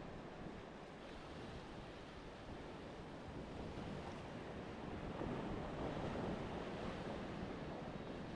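Sea waves washing on the shore, a steady rush that swells into a louder wave about five seconds in and then eases off.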